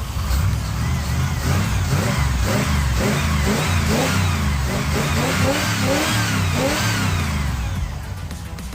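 Chevy 454 big-block V8 in a 1965 C20 pickup being revved in a quick run of throttle blips, the pitch rising and falling several times, then dropping back toward idle near the end. The revving tests whether a newly added second PCV valve keeps the breather from spitting oil under throttle.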